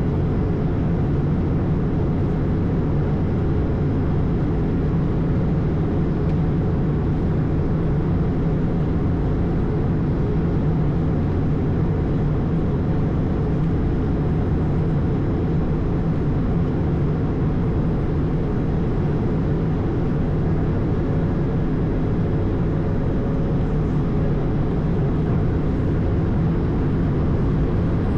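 Steady low rumble of engine and airflow noise inside an Airbus A220, its Pratt & Whitney PW1500G geared turbofans running at a constant setting.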